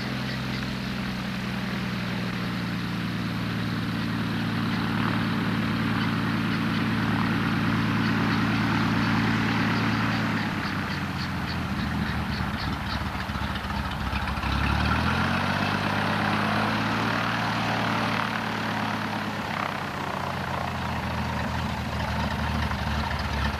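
Cessna 180's engine and propeller running steadily. About ten seconds in the engine note drops away, and around fifteen seconds it rises again as power comes back on, then holds steady.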